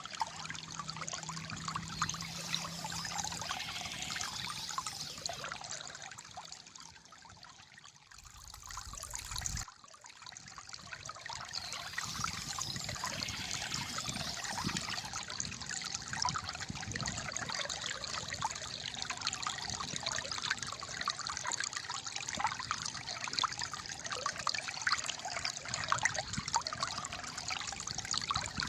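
Shallow water flowing and gurgling steadily, a trickling, bubbling wash. It fades down for a few seconds partway through, then comes back suddenly about ten seconds in.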